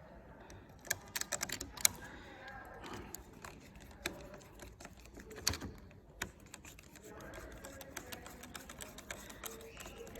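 Quick runs of small metallic clicks and taps, with a cluster of sharper clicks about a second in and a louder knock midway, from hand tools tightening a screw on a motorcycle handlebar.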